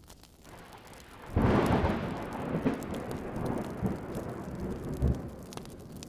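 A thunderclap breaks in suddenly about a second in and rolls on with several further rumbles, slowly fading, over steady rain.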